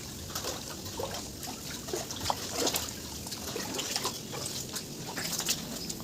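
Rainwater dripping and trickling, with irregular drops landing several times a second over a steady wet hiss.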